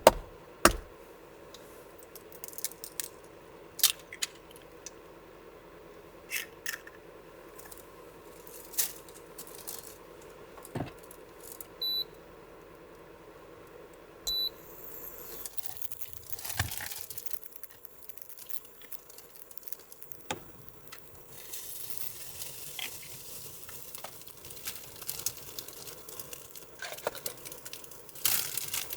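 Small objects being handled, with scattered clicks and knocks, over a steady hum that stops about halfway through. Two short high electronic beeps sound a couple of seconds apart, just before the hum stops.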